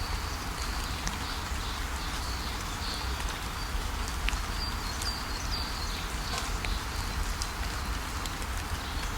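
Waterfall rushing steadily, with small birds chirping in short, high calls scattered throughout.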